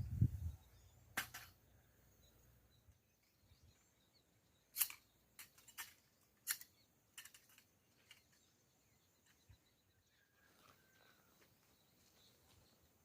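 Sparse sharp clicks or snaps, about eight in all, spread irregularly over the first two-thirds, against a quiet outdoor background. A faint, short bird-like chirp comes near the end.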